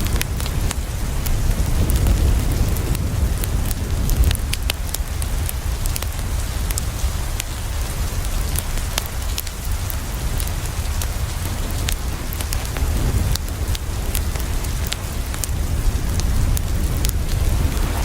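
Steady rain falling, with a low rumble underneath and scattered sharp crackles from a wood fire.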